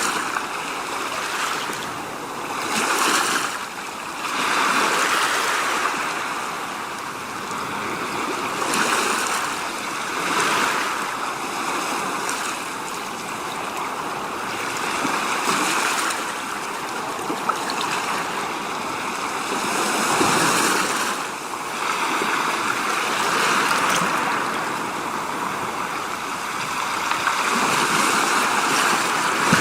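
A steady rushing, water-like noise that swells and eases every couple of seconds.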